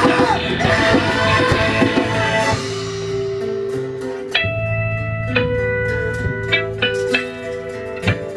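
Live music: a dense full-band passage for the first two and a half seconds, then a guitar playing alone, picking single notes that ring on.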